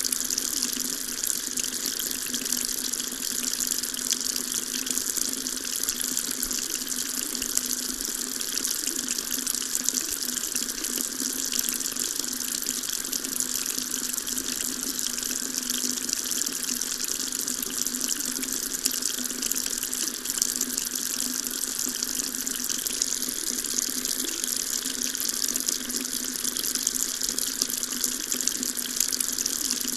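Water running steadily from a tap in an unbroken stream, a constant splashing hiss.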